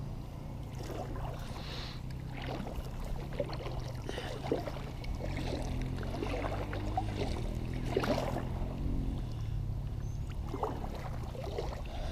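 Kayak paddling on a river: irregular small splashes and drips of water from the paddle strokes, with a stronger stroke about four seconds in and another about eight seconds in, over a steady low rumble.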